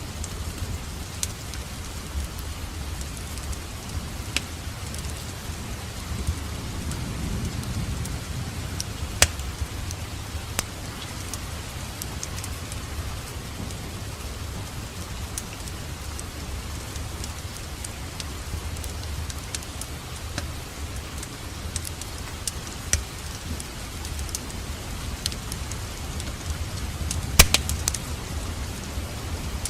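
Wood fire crackling in a fireplace: a steady low rumble of flames with scattered sharp pops and snaps, one strong pop about nine seconds in and a louder cluster of pops near the end.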